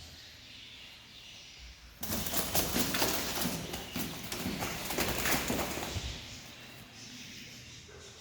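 A bird trapped indoors flapping its wings in a rapid flurry that starts about two seconds in and lasts about four seconds.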